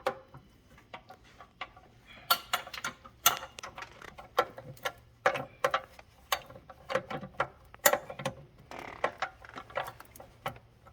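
Irregular metallic clicks and clinks, metal tools and engine parts being handled, coming in loose clusters with short ringing after each.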